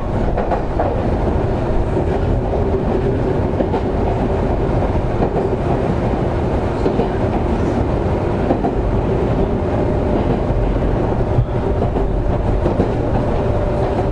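Semboku 7020-series electric train running at speed, heard from inside the car: a steady rumble of wheels on rail with occasional rail-joint clicks and a faint steady motor whine. A second, higher whine comes in about ten seconds in.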